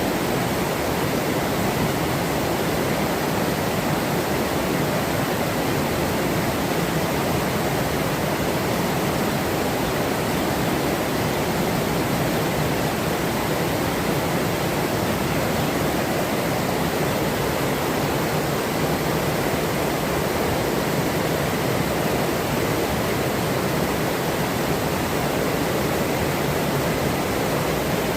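Forest river running steadily, a constant rushing of flowing water.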